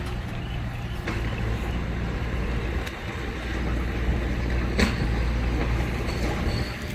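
Heavy diesel earthmoving machinery running steadily at a low drone, with a sharp metallic knock about five seconds in.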